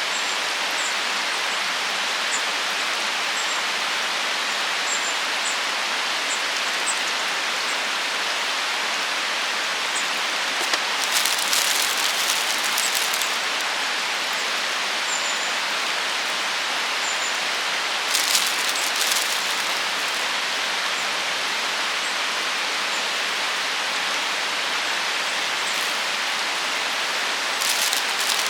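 Steady rain-like rushing hiss, with faint short high chirps scattered through it. A brief louder burst of crackly noise comes about eleven seconds in, again around eighteen seconds, and once more near the end.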